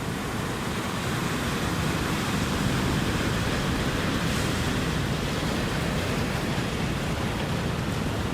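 Ocean surf: a steady wash of breaking waves that swells slightly a few seconds in.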